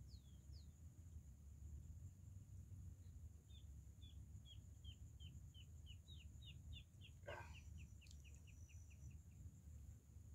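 Faint bird calling: a run of about twenty short down-slurred notes, roughly three or four a second, with a single louder, lower call partway through.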